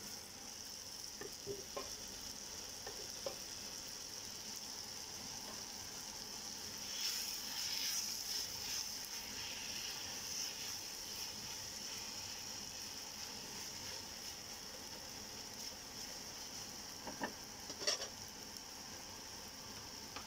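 Sliced onions and tomatoes sizzling as they fry in oil in a pan, being cooked down until the oil separates. A spatula stirs them, with the sizzle swelling as they are turned. A few light knocks and clatters come early on and a louder cluster near the end.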